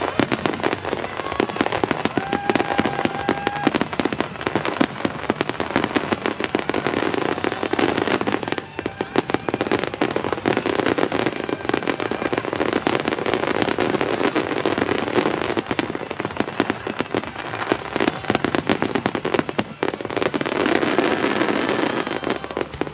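Large fireworks display in a rapid, continuous barrage: dense overlapping shell bursts and crackling, with a couple of short whistles early in the barrage.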